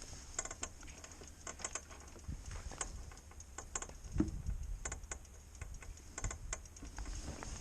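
Irregular sharp clicks and ticks, some in quick clusters, with a soft low thump about halfway, from around the engine area of a Honda Transalp motorcycle. It is an unexplained noise that the owner has ruled out as coming from the rear shock, front forks or shock linkage.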